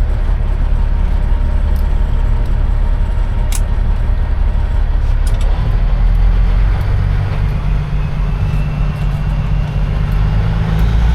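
Semi-truck's diesel engine running, heard from inside the cab as the truck pulls through a truck stop. The engine note changes about six seconds in, as it pulls harder.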